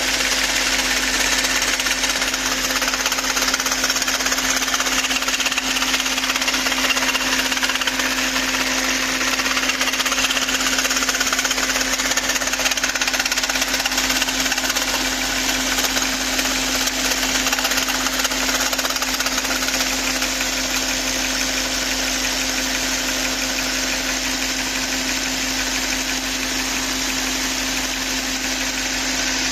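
Volkswagen Phaeton V8 engine running steadily with an odd noise, which the owner suspects comes from a camshaft adjuster; a steady hum is held throughout, over an even hiss.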